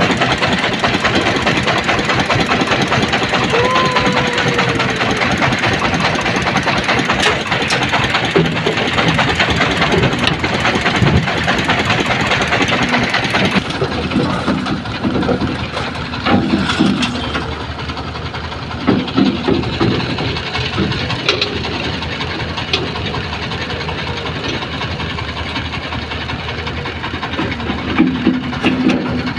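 Excavator's diesel engine running as the machine works, a loud, steady mechanical din. About halfway through, the hissy upper part of the sound drops away abruptly.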